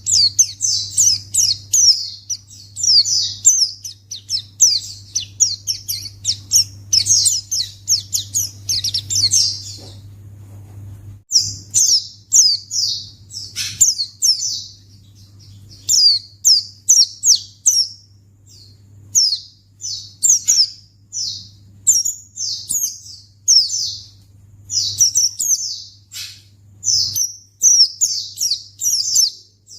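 White-eye (pleci) singing a rapid, continuous string of high chirps and trills, with a brief break near the middle; a song meant to lure other white-eyes into answering. A faint low hum runs under the first part and stops about eleven seconds in.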